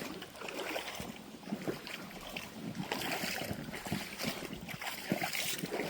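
Water lapping and splashing unevenly, a continuous run of short irregular splashes.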